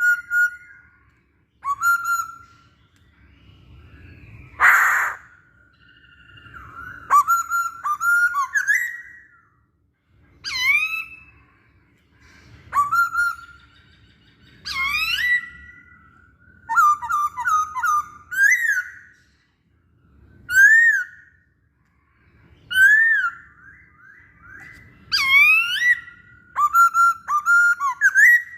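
Chinese hwamei singing: loud phrases of clear whistled notes with steep upward and downward slurs, repeated every second or two with short pauses between them. One short harsh note breaks in about five seconds in.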